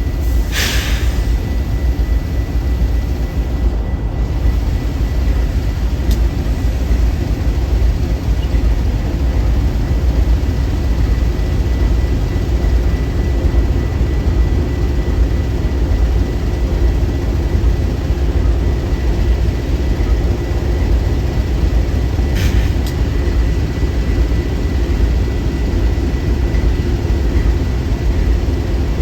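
Steady, loud low rumble of a train, with a short hiss just after the start and another about twenty-two seconds in.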